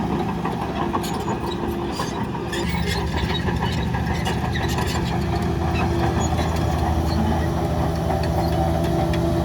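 A heavy earthmoving machine's diesel engine runs steadily, with scattered metallic clanks and rattles over the first few seconds.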